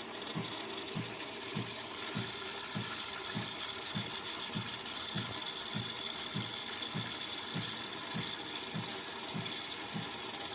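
De'Longhi Eletta Explore bean-to-cup coffee machine running: a steady hiss and high whine, with a low thump that pulses evenly about every 0.6 seconds.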